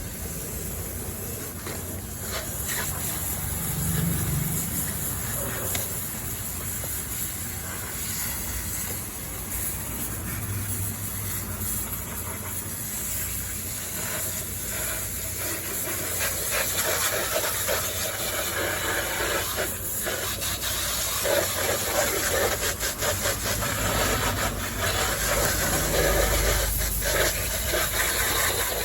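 Spray hissing onto a dirty RC car as it is sprayed clean, getting louder and fuller about halfway through.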